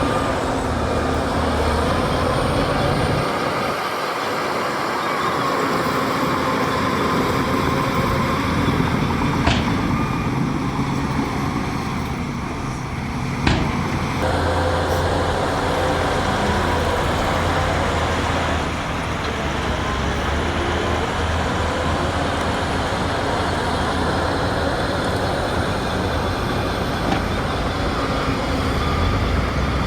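Diesel engine of heavy earthmoving machinery running steadily under load, with two sharp knocks around the middle.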